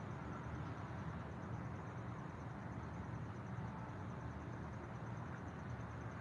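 Outdoor nature ambience: a steady low rumble and hiss with a fast, even, high-pitched pulsing trill running on at one pitch.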